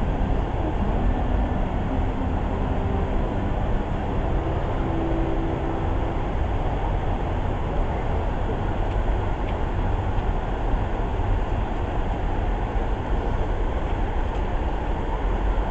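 Water fountain jets splashing and falling into the basin: a steady, even rush of water with a heavy low rumble.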